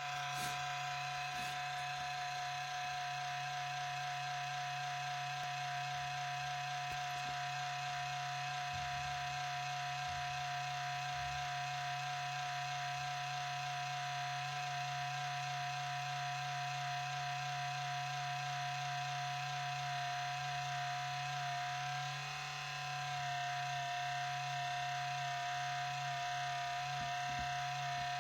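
HP Pavilion 15 laptop making a steady whining tone over a low hum, the noise its owner hears when it boots; the level dips briefly about three quarters of the way through.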